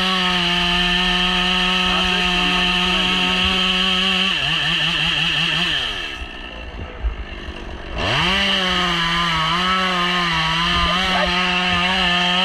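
Gas chainsaw running at high speed, dropping back to idle about four seconds in and revved up to high speed again about eight seconds in.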